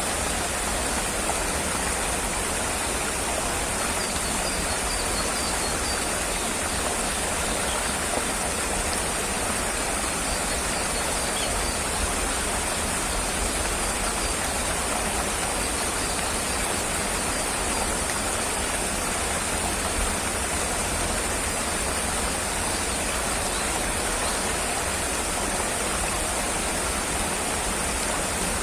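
Steady, even rushing noise with no breaks or changes in level, of the kind made by flowing water or rain.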